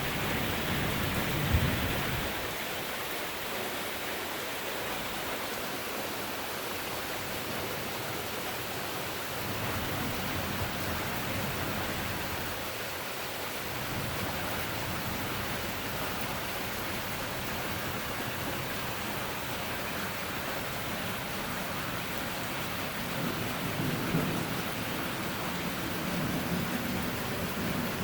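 Steady heavy rain during a thunderstorm, with rolls of thunder: a sharp clap about a second and a half in, and a low rumble building near the end.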